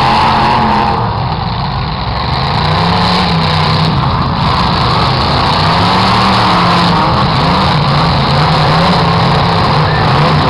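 Several demolition derby cars' engines running and revving together, their pitch rising and falling unevenly as the cars shove at one another.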